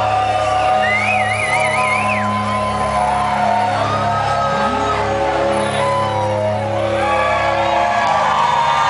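A live rock band plays the opening of a song over an audience, with sustained bass and keyboard notes and scattered shouts and whoops from the crowd. About a second in, someone lets out a high, wavering cry that lasts just over a second.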